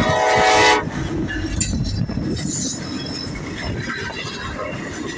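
Norfolk Southern freight locomotive's horn sounding a chord that cuts off under a second in. It is followed by the steady rumble and wheel clatter of the manifest freight train rolling past.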